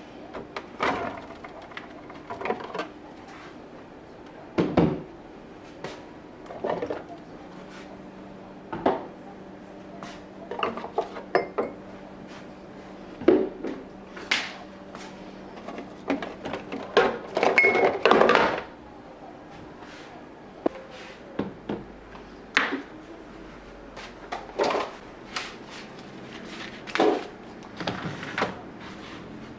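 Storage containers and kitchen items being handled and set down, a string of short knocks and clatters with a busier run a little past the middle.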